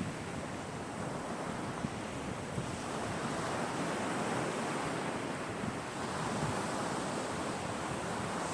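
Sea waves washing onto a beach: a steady rush of surf that swells a little in the middle.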